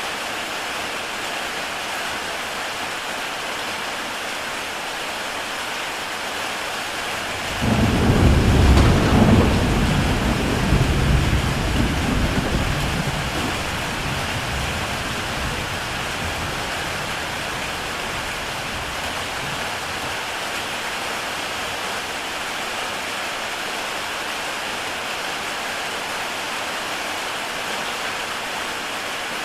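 Heavy rain falling steadily on a tile roof, a constant hiss. About a quarter of the way through, a deep roll of thunder breaks in suddenly and rumbles away over several seconds.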